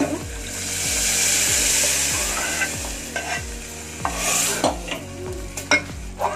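Boiled, crushed sambar dal and vegetables poured into hot tempering oil in an aluminium pot, sizzling loudly in a hiss that swells and dies down over the first couple of seconds. A steel ladle then stirs it, with a shorter sizzle and a few clinks and scrapes of the ladle against the pot.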